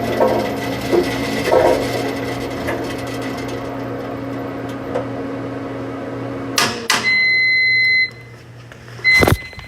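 Washing machine running with a steady hum, then two sharp clicks as the running stops, followed by a steady electronic beep lasting about a second. Near the end, a knock and another short beep.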